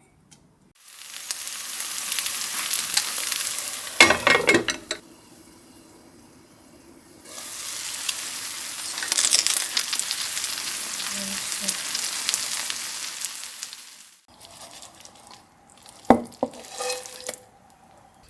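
Food sizzling in a hot frying pan, in two long stretches with a short pause between. Cookware clatters at the pause and again near the end.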